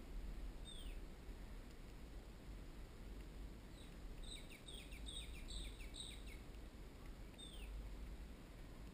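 A bird calling in forest: one short down-slurred whistle near the start and another near the end, and in the middle a quick run of about ten short falling chirps, roughly five a second. Under it a steady faint low rumble.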